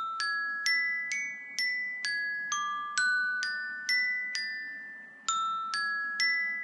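iPhone iOS 7 ringtone playing: a melody of single bell-like notes, like a glockenspiel, struck about twice a second, each ringing on into the next, the short phrase repeating.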